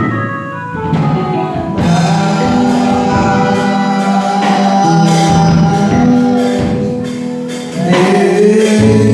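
Gospel worship music: singing over instrumental backing with a steady percussion beat.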